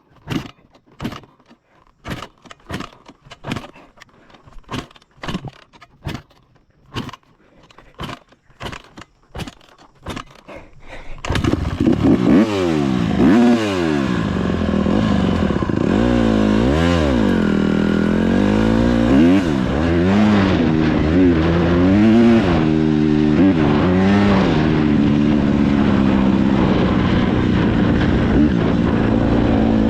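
A run of sharp knocks, about one and a half a second, then a dirt bike engine starts about eleven seconds in. It is revved up and down several times, then runs steadily.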